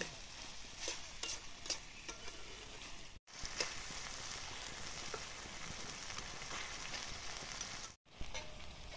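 Chicken and potato curry sizzling in a metal kadai over a wood fire, with a long metal spatula stirring it and clicking against the pan now and then. The sound breaks off abruptly twice, about three seconds in and again near the end.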